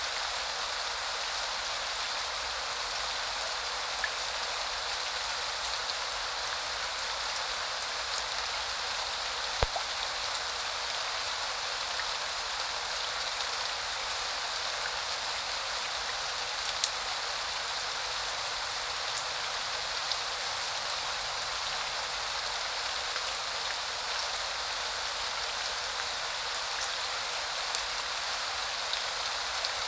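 Steady spring rain falling in an even hiss, with a few single louder drops ticking close by, the sharpest about ten and seventeen seconds in.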